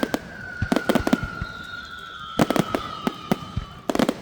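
Fireworks going off in clusters of sharp bangs and crackles. Through most of it a long high whistle slowly falls in pitch.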